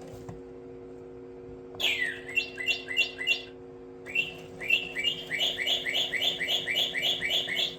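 Toy singing bird chirping: a falling whistle and a handful of quick chirps about two seconds in, then, after a short pause, a fast run of a dozen or so chirps, about three to four a second. A steady low hum runs beneath.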